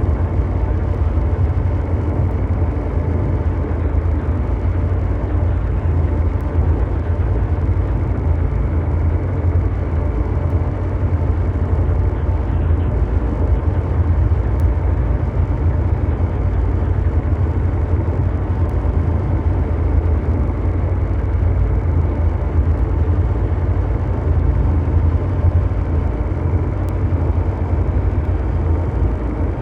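Continuous low mechanical drone, an engine-like hum of dense noise weighted deep in the bass, like brown noise. It holds steady without pauses or changes.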